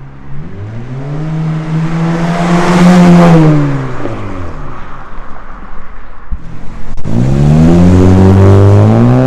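Honda Civic 2.0 litre four-cylinder engine accelerating hard through an Invidia N1 catback exhaust. The note climbs to a loud peak about three seconds in and falls away as the car passes, then climbs again in a second pull from about seven seconds.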